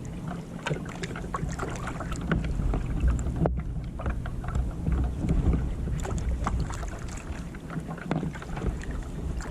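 Kayak being paddled: water splashing and dripping from the paddle, with wind rumbling on the microphone. There is a sharp click about three and a half seconds in.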